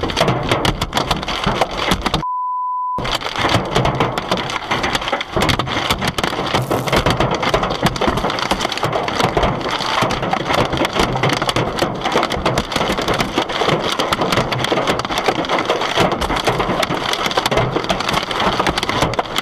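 Heavy hail pelting a car, a dense, unbroken clatter of hailstones striking. About two seconds in, the sound cuts out for under a second and a steady bleep tone replaces it.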